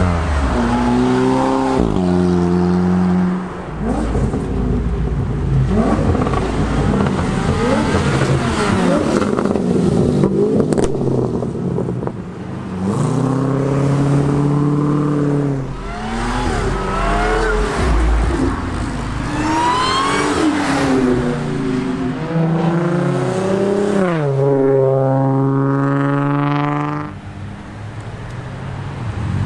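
High-performance car engines accelerating hard past, the revs climbing and dropping through several gear changes in a series of pulls. Near the end, one engine winds up in a long, high-revving pull.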